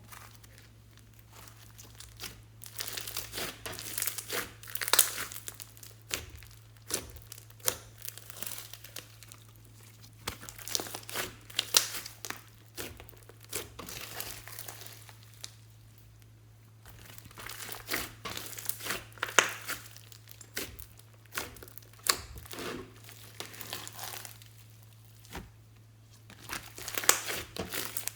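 Hands kneading and stretching glossy slime, giving dense crackling and popping clicks from trapped air. The clicks come in spells of a few seconds with quieter gaps between them, over a faint steady low hum.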